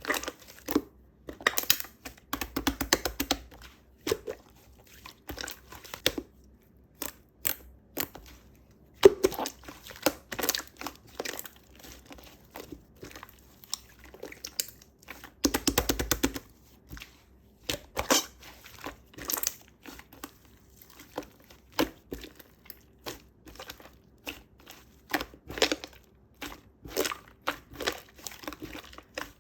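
Slime being squeezed, stretched and poked by hand: a steady run of irregular sticky clicks, pops and crackles, with denser crackling stretches every several seconds.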